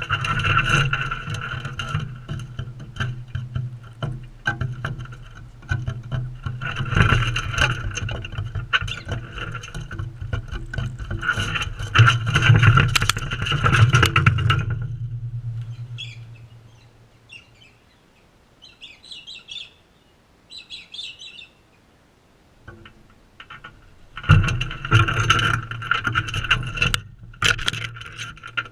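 Parrots feeding right at the camera: a dense, rapid clatter of clicks and scratches close to the microphone. It falls quiet about halfway through, when a few short high bird chirps are heard, and then the clatter starts again near the end.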